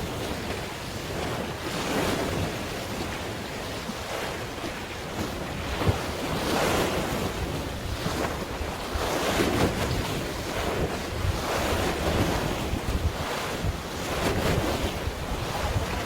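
Waves washing in over and over, swelling every two to three seconds, with wind buffeting the microphone.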